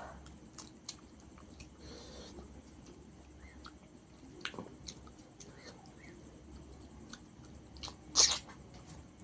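A person chewing and eating rice with tilapia fish curry, with scattered small wet mouth clicks and smacks, and one louder short noisy sound near the end.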